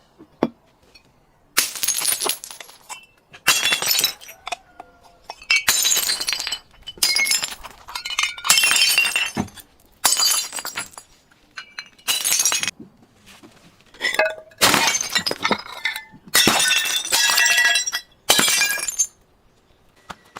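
Glass bottles being smashed and crushed, about ten separate bursts of cracking with tinkling, ringing shards, each under a second long, with short quiet gaps between them.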